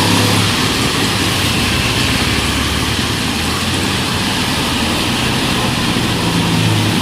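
City street traffic in the rain: vehicle engines running and idling, the low engine hum strongest at the start and again near the end, over a steady hiss of rain and wet road.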